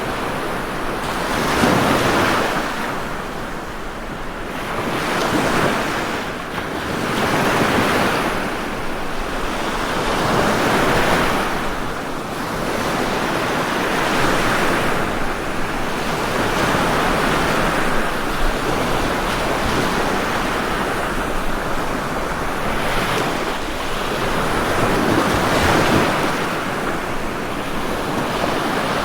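Ocean waves breaking and washing on a shore, in a continuous rushing surf that swells and ebbs every few seconds.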